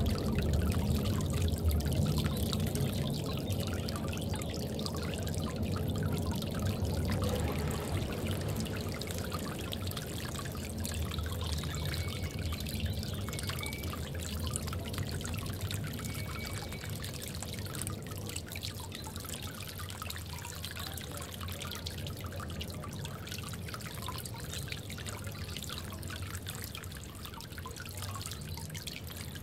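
Water trickling and pouring steadily in a bird bath.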